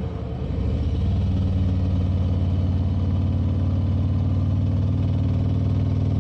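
Motorcycle engine heard from on the bike while riding; its note dips briefly in the first second as the throttle eases, then picks back up and runs steadily at cruising speed.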